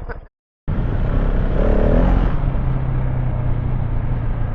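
KTM 690 Enduro R's single-cylinder engine running under way off-road, mixed with wind and riding noise on the helmet microphone. It cuts in abruptly about half a second in after a moment of dead silence, and its low steady note settles from about two seconds in.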